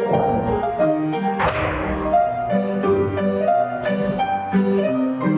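Piano playing a tune with a steady beat, for barre exercises in a folk-dance class. Two sharp accents cut through it, about one and a half and four seconds in.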